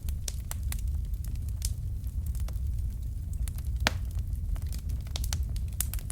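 Fireplace fire crackling: irregular sharp pops and snaps, the loudest just under four seconds in, over a steady low rumble of the flames.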